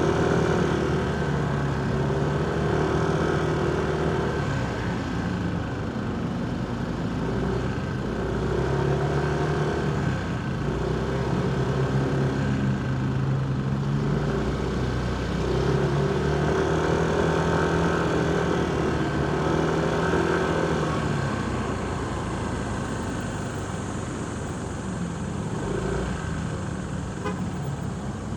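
Motorcycle engine running in heavy city traffic, its pitch rising and falling several times as the rider opens and closes the throttle, over the noise of surrounding vehicles.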